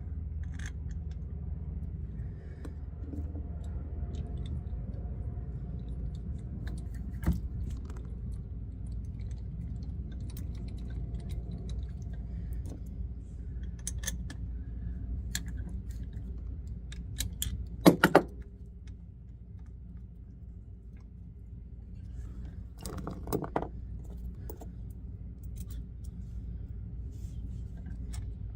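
Hand tools and steel bolts clinking and rattling now and then while a truck driveline part is bolted up, with one loud ringing metal clank about eighteen seconds in and a short cluster of knocks a few seconds later, over a steady low hum.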